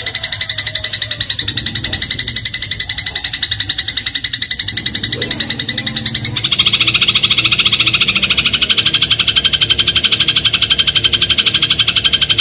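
Eurasian tree sparrow (burung gereja) giving a continuous, rapid rattling chatter of evenly repeated high notes. The pattern of the notes shifts slightly about six seconds in.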